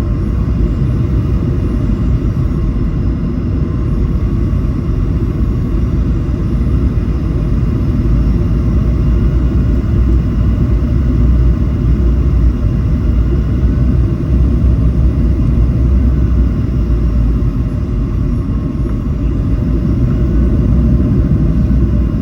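Cabin noise inside a Boeing 737: a steady low rumble of engines and airflow, with faint whining engine tones above it.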